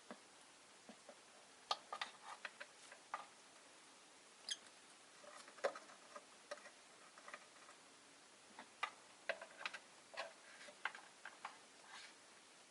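Faint, irregular small clicks and taps from rosy-faced lovebirds in their cage, the sort made by beaks and feet on perches and bars or by seed-cracking, with one brief high squeak about four and a half seconds in.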